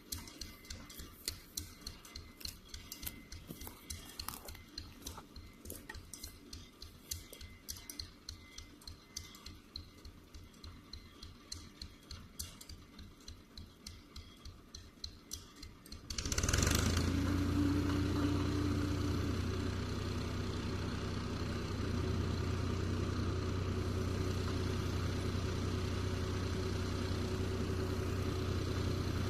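Steyr 540 tractor engine: a quiet, even ticking at about three to four ticks a second, then about halfway through the engine suddenly comes in loud and runs steadily with a deep hum.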